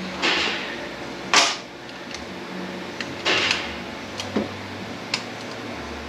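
About five short metallic scrapes and clicks as hand tools work at parts inside a Ford 10R80 transmission case, prying a snap ring out, the sharpest about a second and a half in, over a steady low hum.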